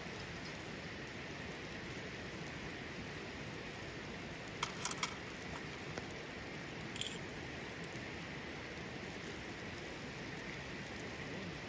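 Steady hiss like rain falling, with a short cluster of sharp clicks about halfway through.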